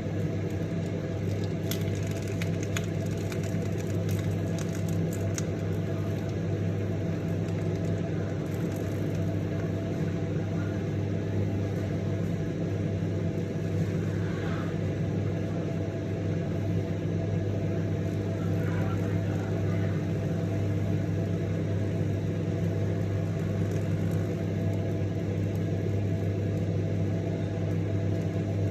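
Microwave oven running with a steady electrical hum, with a cluster of faint crackles and ticks in the first few seconds.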